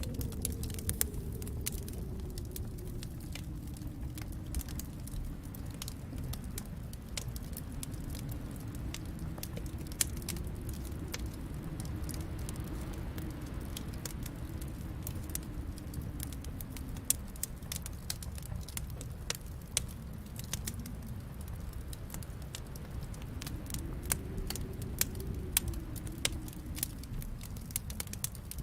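Wood fire crackling in a fireplace: frequent sharp pops and snaps, some louder than others, over a low rushing sound that slowly swells and fades.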